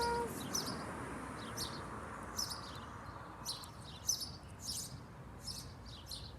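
Small birds chirping: short, high chirps repeating about once or twice a second over a faint low background rumble.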